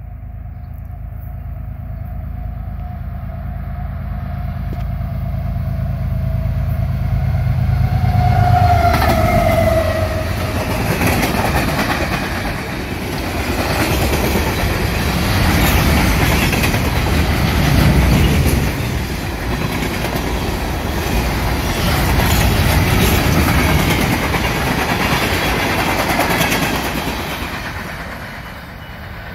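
Union Pacific freight train passing close by. The locomotives' low rumble builds over the first eight seconds, and a steady tone drops in pitch as they pass about nine seconds in. Then the freight cars roll past with continuous wheel clatter over the rail joints, easing off near the end as the last cars go by.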